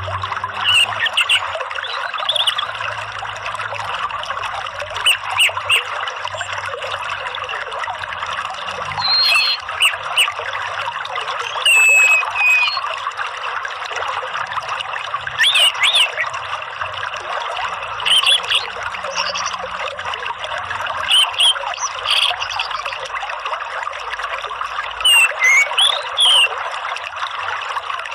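Steady trickling running water, with short high bird chirps and whistles coming every two seconds or so.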